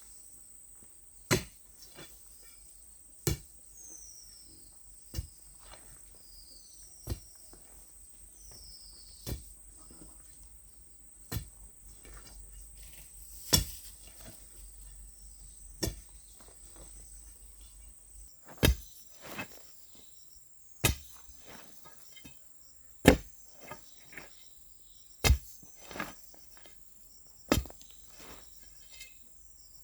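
Hoe chopping into soil, one stroke about every two seconds, over a steady insect drone with a few bird chirps in the first part.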